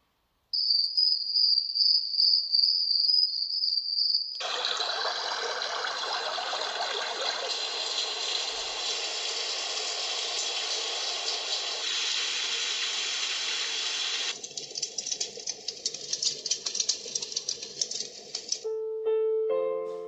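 Dreamegg Pocket Sleep 1 mini white noise machine stepping through its built-in sleep sounds. First a high pulsing chirp, then about four seconds in a dense steady hiss, which turns thinner and higher with a fine crackle a few seconds before the end. Just before the end, picked music-box-like lullaby tones begin.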